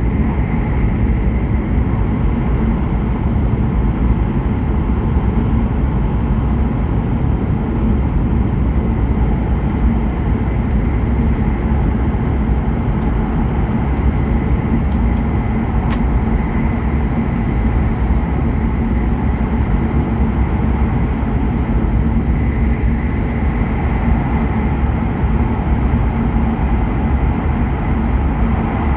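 Interior running noise of a Hokuriku Shinkansen train at speed: a steady, even rumble of wheels and rails with a faint whine over it and a few light ticks near the middle.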